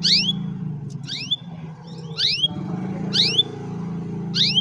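Canary repeating one short, sharp swooping call about once a second, five times, over a steady low hum.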